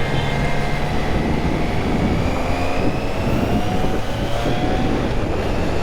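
Wind rushing over the microphone of a moving motorcycle, with the engine's hum faintly underneath, its pitch slowly climbing as the bike picks up speed.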